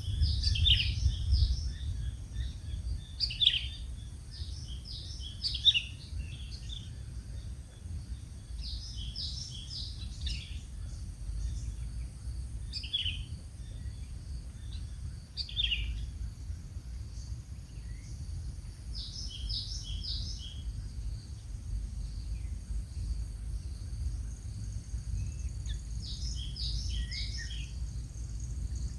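A bird calling in short, high chattering bursts that repeat every few seconds, over a steady high insect drone and a low rumble.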